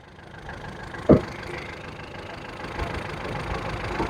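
Petrol Ford Figo engine idling steadily, its idle speed now stable after a stalling and hunting-rpm fault was cleared, with a short thud about a second in.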